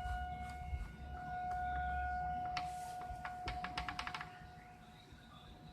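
A quick run of light clicks and taps, like small parts and tools being handled on a workbench, over a steady high-pitched hum.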